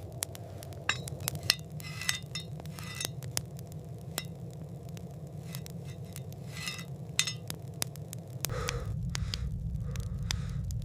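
Dishes and utensils clinking and scraping in a scatter of short, ringing clinks, over a steady low rumble that grows louder near the end.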